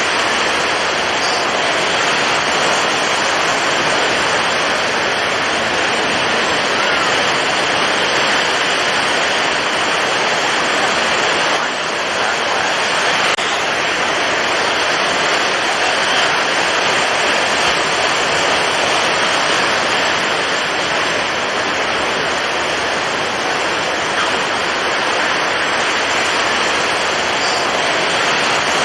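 Storm at sea: strong wind and heavy surf blending into one steady, dense rushing noise with no distinct breaks.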